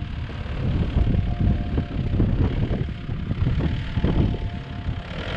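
Four-wheel-drive engine revving under heavy load as the vehicle sinks into soft, boggy ground while pulling another car out.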